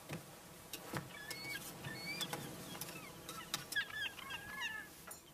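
Birds chirping in short rising and falling calls, thickest about four seconds in, with a few soft knocks.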